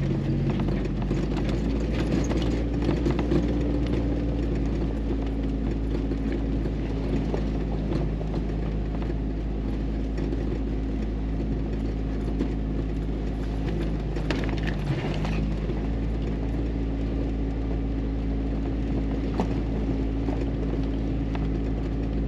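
Jeep Wrangler driving steadily on a rough back road: an even engine hum with small knocks and rattles throughout, and a brief louder clatter about 15 seconds in.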